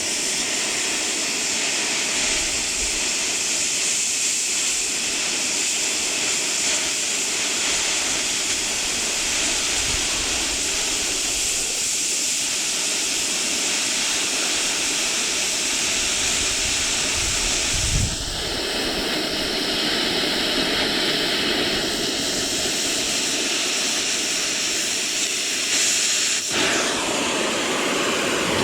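Stick welding arc crackling and hissing steadily, its tone shifting twice: once about two-thirds of the way in and again near the end.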